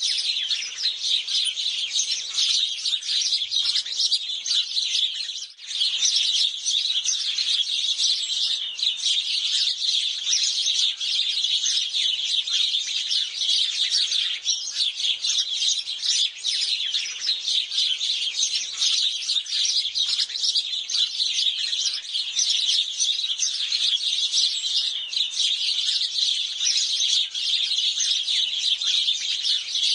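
House sparrows chirping, many birds at once in a dense, unbroken chatter of short high chirps.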